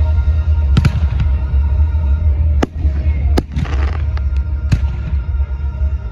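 Aerial fireworks bursting: five sharp bangs spaced roughly a second apart, with a spell of crackling in the middle. Music for the show plays steadily underneath.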